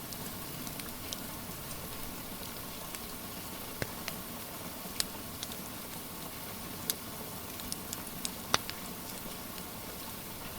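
Steady hiss of rain with a wood fire crackling: about ten sharp pops scattered through, the loudest about eight and a half seconds in.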